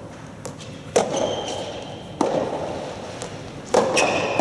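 Soft tennis rally: a soft rubber ball struck by rackets, three sharp hits a little over a second apart with a few fainter knocks, echoing in a large hall.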